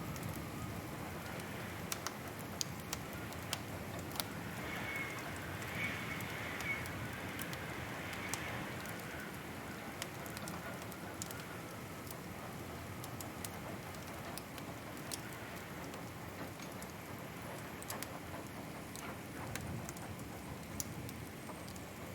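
Wood fire in a fireplace crackling over a steady soft hiss, with scattered sharp pops throughout and a faint higher hiss a few seconds in.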